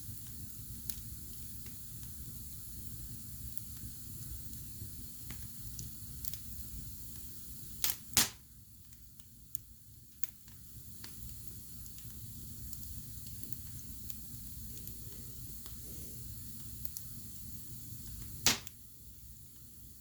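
Wood fire burning in a fireplace: a low steady crackle with scattered small clicks, and loud sharp pops of the burning wood, two close together about eight seconds in and one more near the end.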